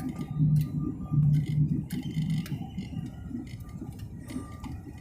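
Airliner cabin noise on final approach: a steady low rumble of engines and airflow, with muffled voices in the first half and scattered light clicks.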